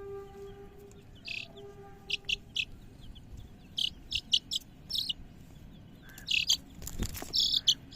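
Young chickens peeping: a run of short, high chirps at irregular intervals, with a single knock about seven seconds in.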